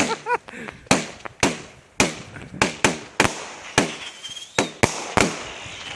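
Fireworks going off: a rapid, irregular series of sharp bangs, about three a second, each with a short echoing tail.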